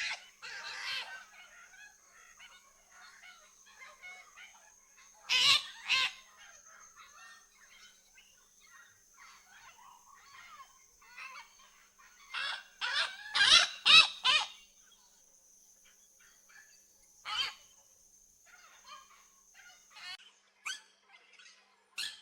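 Macaw giving loud, harsh squawks in bouts: two about five seconds in, a quick run of four or five around twelve to fourteen seconds, and one more near seventeen seconds. Under them, smaller birds keep up a faint steady twittering and a thin high steady whine runs.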